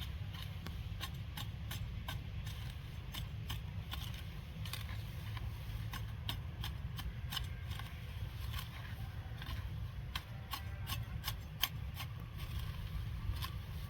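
Grass being cut by hand: a run of crisp, irregular snips and clicks, several a second, over a low steady rumble.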